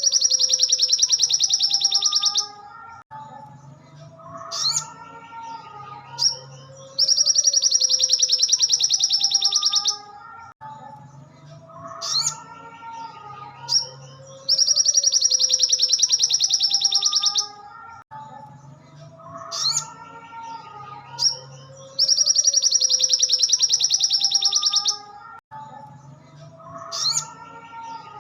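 Recorded song of a sogon (sogok ontong) songbird played on a loop as a training 'masteran' track. A loud, very fast high trill lasts about two and a half seconds, then gives way to quieter, lower, varied chirps and whistles, and the whole phrase repeats about every seven and a half seconds.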